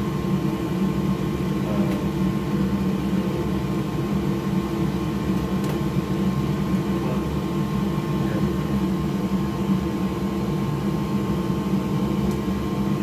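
Steady mechanical whir and hum with constant tones, with no distinct clicks or knocks standing out.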